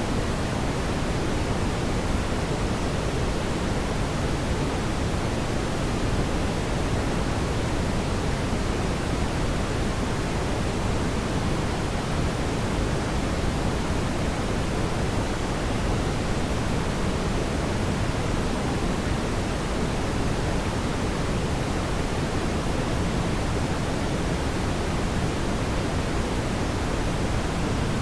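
Fireplace ambience: a steady, even rushing noise, heaviest in the low end, with no distinct crackles or pops.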